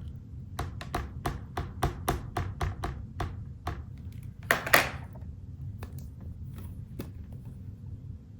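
Ink pad being dabbed repeatedly onto stamps, a run of quick light taps about three a second, then one louder knock a little past halfway and a few scattered clicks.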